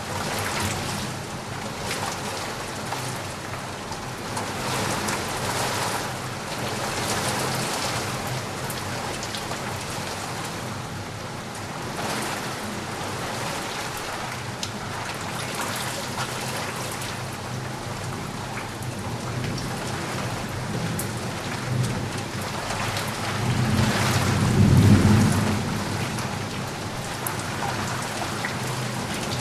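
Steady rain falling, with a low rumble of thunder swelling up about three-quarters of the way through, the loudest moment.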